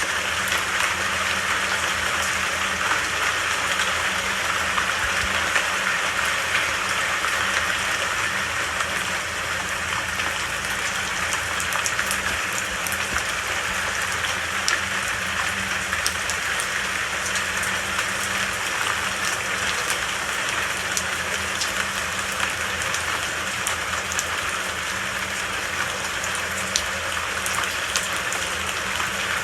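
Steady, even rain falling, with scattered individual drops ticking above the hiss.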